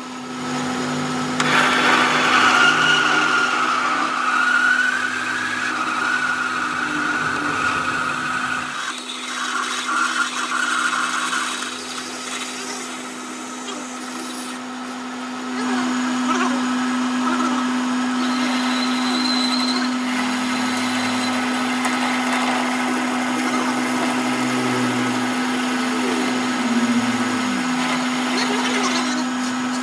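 An electric workshop machine running with a steady hum while working metal on a broken mini generator engine crankshaft. The higher cutting or grinding noise swells and fades as the work goes on.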